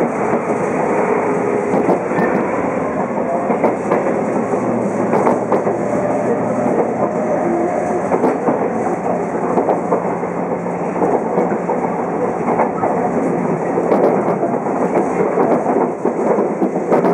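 Cabin running noise of a JR Kyushu 817 series electric train: a steady rumble of wheels on the rails, with irregular sharp clicks and clatter from the track. A faint low hum rises for a few seconds in the middle.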